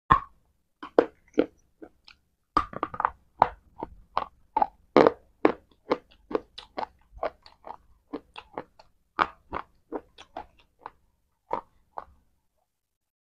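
Close-miked biting and chewing of a hard, chalky white piece: a dense run of dry crunches, a few each second, that stops about twelve seconds in.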